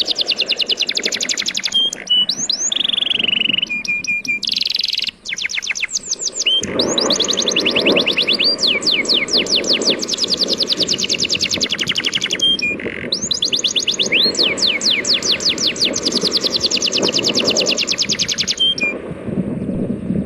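Bird chirping in long fast trills: high notes that each sweep quickly downward, repeated many times a second in runs of several seconds with short breaks. Underneath runs a steady low wash of breaking sea waves.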